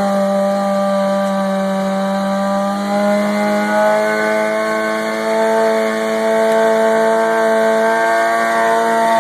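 Motorcycle engine held at high revs during a stationary burnout, the rear tyre spinning against the floor. The pitch stays steady and creeps slowly higher.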